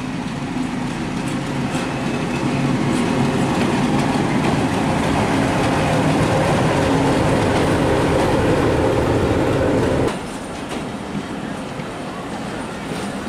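Diesel locomotive hauling a passenger train close past, its engine growing louder as it comes alongside, then dropping away sharply about ten seconds in as it passes. The coaches follow, rolling by with wheels clacking over the rail joints.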